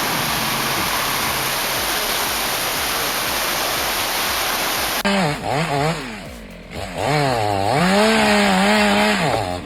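A steady rushing noise, then about five seconds in an abrupt switch to a chainsaw running under load, its pitch dipping and rising as it bogs in the cut and revs back up, then holding high before dropping away near the end.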